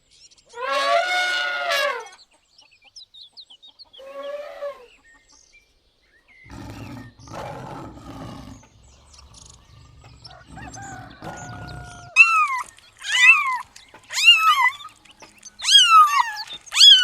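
Animal calls: a drawn-out call about a second and a half long, a shorter call a few seconds later, then a run of short, high calls that fall in pitch, repeating about once a second.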